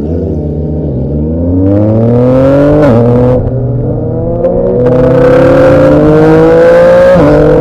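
Motorcycle engine accelerating hard through the gears, its pitch climbing steadily and dropping sharply at each upshift, about three seconds in and again near the end.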